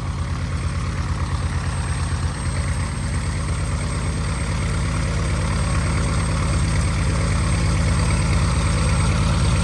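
The Continental O-300 six-cylinder engine of a 1948 Cessna 170 runs steadily with its propeller turning, its exhaust pulsing evenly and growing gradually louder. It is running smoothly after a long lay-up, without coughing or spitting.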